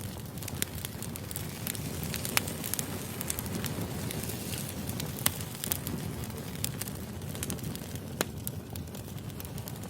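Firewood burning: a steady low rush of flame with frequent sharp crackles and pops, three of them louder than the rest.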